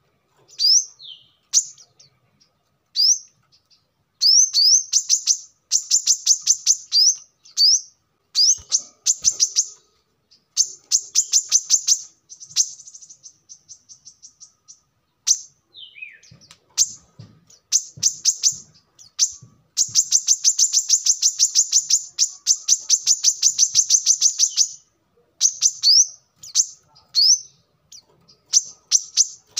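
Brown-throated sunbird (kolibri kelapa) singing: bouts of rapid, sharp high-pitched notes mixed with short rising whistles. A long unbroken trill runs for about five seconds in the last third.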